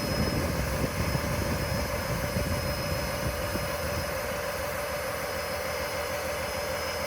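Cummins diesel engine of a Sterling LT8500 dump truck running steadily while the dump bed lowers, with a constant whine over the engine. The low rumble eases off about four seconds in.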